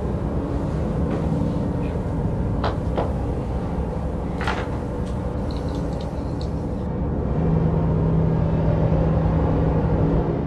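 Low, dense rumbling drone of film sound design, with a few sharp clicks in the first half. A steady low hum comes in about seven seconds in, as the high hiss drops away.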